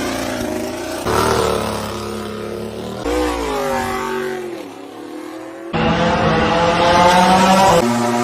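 MotoGP racing motorcycle engines at high revs, in a run of cut-together clips; about three seconds in, one engine's pitch falls steeply as the bike slows or passes, then a louder, higher engine note comes in near the end.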